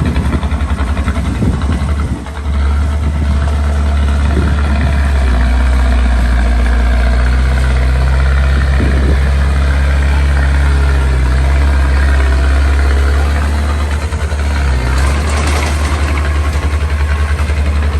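Small bulldozer's diesel engine running with a deep pulsing note. It takes on a heavier load from about five seconds in and eases off near the end.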